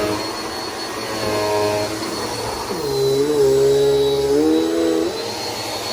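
Bissell PowerForce Helix upright vacuum running, with a steady high motor whine; about three seconds in a deeper pitched hum swells for roughly two seconds, wavering slightly in pitch, then drops away.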